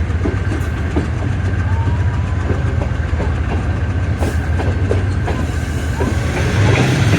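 Passenger train hauled by an AGE30 'Blue Tiger' diesel locomotive, running along the line: a steady low rumble with wheel clicks over the rail joints and a few short squeals. It gets louder about six and a half seconds in.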